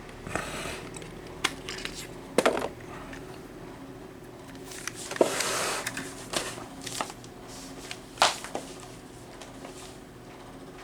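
Scattered clicks and taps from small plastic parts being handled, with a short rustle about five seconds in and a loud click a little after eight seconds.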